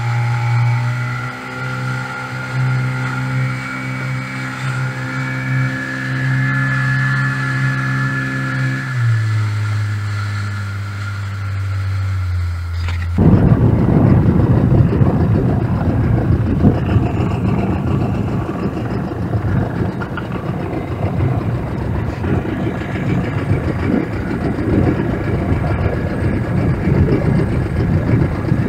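A boat's engine runs with a steady hum, and its pitch steps down about 9 seconds in. About 13 seconds in, the sound switches suddenly to a louder rushing of engine, water and wind as the boat runs.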